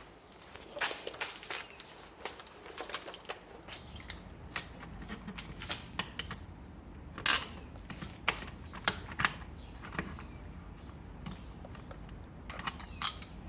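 Irregular clicks, taps and knocks of tools and small hardware being handled while mounting and wiring a garage door opener wall control, with a low steady hum that comes in about four seconds in.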